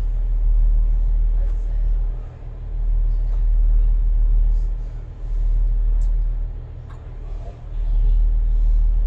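Class 142 Pacer railbus's underfloor diesel engine running, a deep steady drone that swells and dips in loudness every few seconds, heard inside the rear cab.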